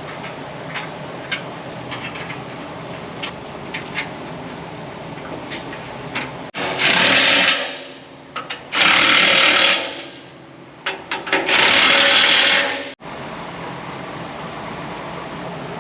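Impact wrench running bolts in three loud bursts of about a second each, starting about halfway through, over a steady background hum with a few light clinks before them.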